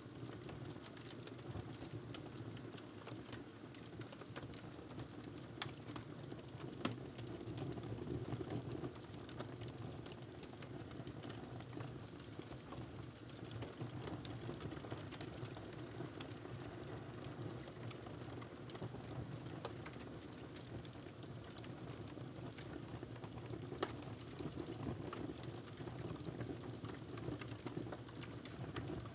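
Wood fire crackling in a fireplace: a steady low rumble of burning with constant small crackles and a few louder pops.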